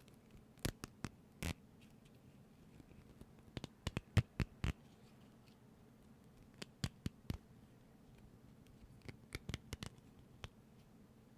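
Short, sharp clicks and taps from objects handled close to the microphone, coming in four small clusters of a few strokes each.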